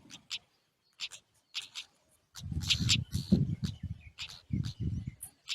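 Birds at a nest giving short, high chirps again and again. About two to five seconds in, low muffled noises sound under the chirps.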